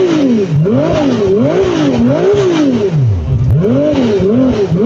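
A car engine revved over and over in quick blips, its pitch rising and falling about once every three-quarters of a second.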